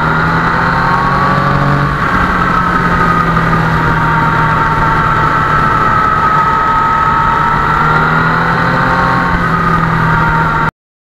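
Yamaha MT-09 motorcycle's three-cylinder engine running steadily, with a slowly wavering whine over a steady low note. The sound cuts off abruptly near the end.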